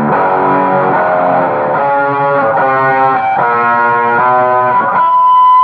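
Music: distorted electric guitar playing a melody of held notes, changing about every half second. About five seconds in, the notes give way to a single steady high tone.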